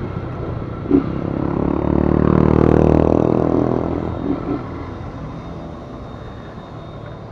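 A motor vehicle's engine swelling in pitch and loudness, loudest about two to three seconds in, then fading away.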